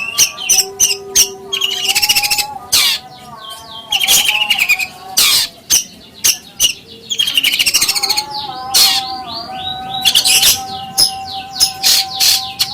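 Songbirds singing in rapid, dense chirps and trills with sharp click-like notes, over a steady held tone.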